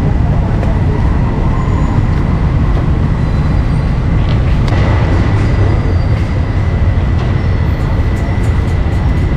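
A continuous, loud low rumble with a thin steady high whine running through it, from machinery or motors.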